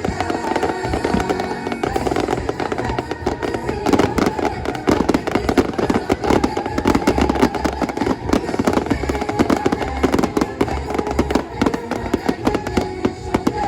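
Fireworks bursting and crackling in quick succession over loud show music from loudspeakers; the bangs grow denser about four seconds in.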